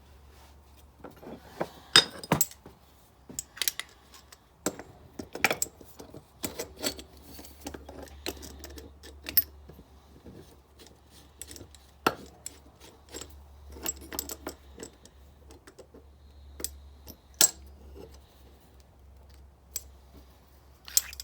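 Metal hand tools being handled: irregular clinks, taps and knocks of steel on steel, with sharper strikes every few seconds.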